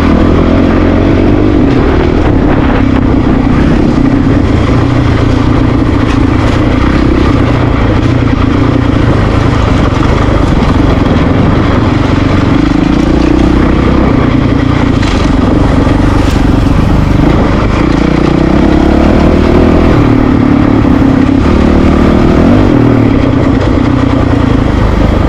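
Honda CRF450RL dirt bike's single-cylinder four-stroke engine running at low, fairly steady revs, its pitch rising and falling a little as the bike rides over rocky trail.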